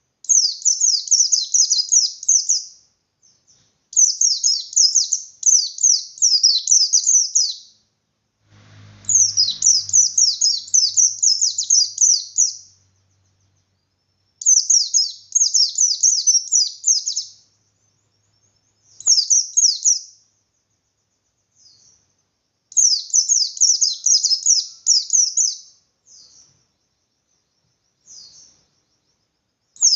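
A pleci bustomi, a white-eye, singing in the wild 'ngalas' style: a run of very fast, high chirping notes delivered in phrases of two to four seconds, with short pauses between them and a few brief shorter bursts.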